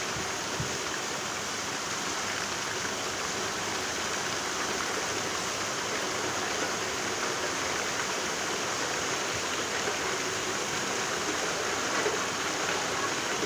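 Steady heavy rain: an even, unbroken hiss of falling water.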